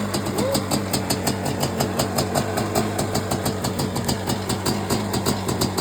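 1987 Suzuki LT500R Quadzilla's freshly rebuilt 500 cc single-cylinder two-stroke engine idling steadily with an even, repeating pulse.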